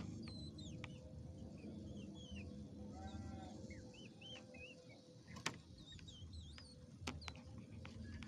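Sooty-headed bulbul calling: short, faint, whistled chirps that rise and fall, repeated throughout, over a low rumble of background noise, with two sharp clicks midway and near the end.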